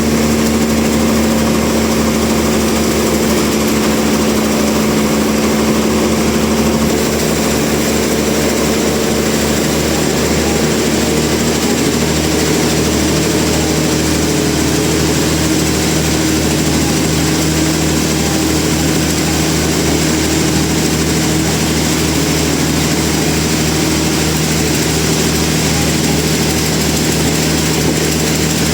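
Sawmill machinery running steadily with a continuous engine-like hum; its main tone steps up in pitch about twelve seconds in.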